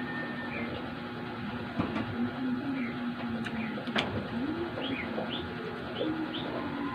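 Utensils clicking sharply on a plate a few times while eating, over a low wavering hum. Short, high bird chirps come several times in the second half.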